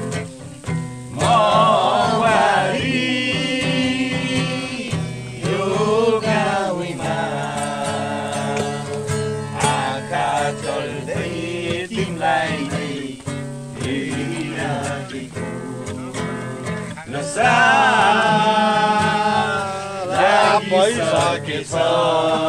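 Acoustic guitar played with voices singing a Nepali song.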